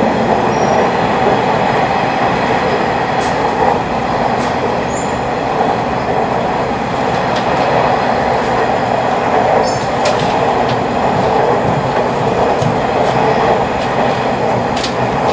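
Running noise heard inside a 485-series electric train car: a steady rumble of wheels on rail, with a few faint clicks.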